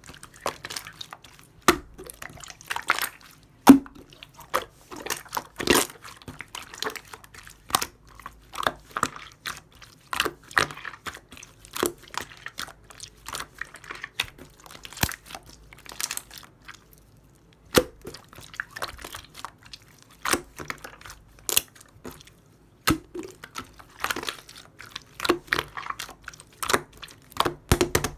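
Hands playing with a chewy slime: irregular sticky squishing with many sharp clicks and pops, with a brief pause partway through.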